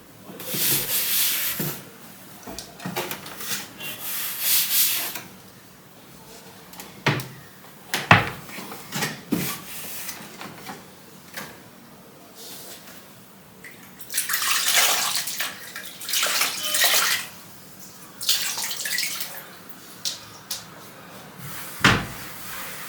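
Water running and splashing in several bursts of one to three seconds each, with a few sharp knocks in between, the loudest about eight seconds in.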